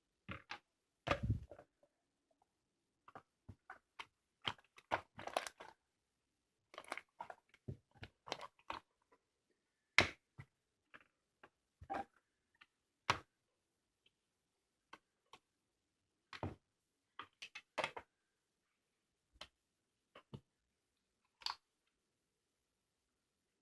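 Homemade slime squeezed and stretched by hand, giving scattered short sticky clicks and pops, some in quick clusters, with silent gaps between them.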